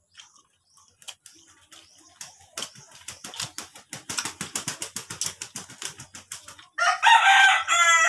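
Close-up mouth sounds of eating, with fast, wet clicking of chewing that grows dense about two and a half seconds in. Near the end a rooster crows loudly for about a second.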